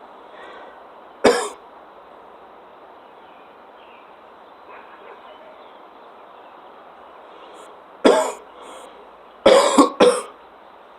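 A man coughing hard after drawing on cannabis smoke: one cough about a second in, then a cluster of three coughs near the end.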